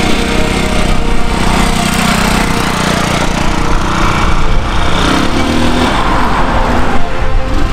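Honda CF70 Chaly's small air-cooled single-cylinder four-stroke engine running steadily as the bike is ridden in a lap, moving away and coming back.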